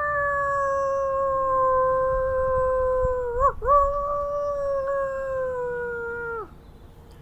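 A single long animal howl. It rises at the start, then holds and slowly sinks in pitch, breaks briefly a little past halfway, and ends with a quick drop after about six and a half seconds.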